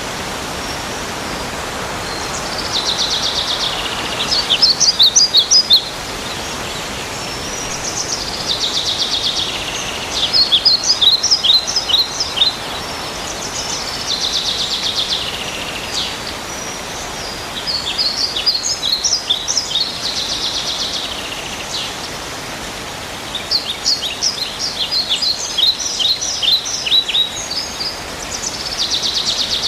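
A songbird singing the same phrase over and over, about every five seconds: a high buzzy trill followed by a quick run of sharp, clipped notes. Beneath it is a steady outdoor hiss.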